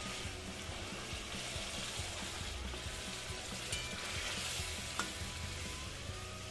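Stuffed brinjals in an oily spiced gravy sizzling and bubbling in a steel kadai as they cook through, stirred with a steel spatula. Two sharp clicks come a little past halfway, a second apart.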